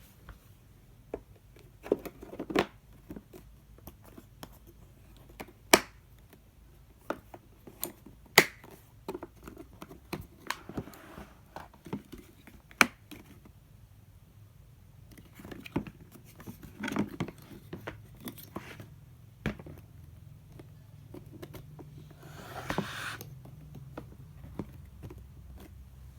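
Handling sounds from unboxing: irregular sharp clicks and knocks, with two short spells of rustling packaging.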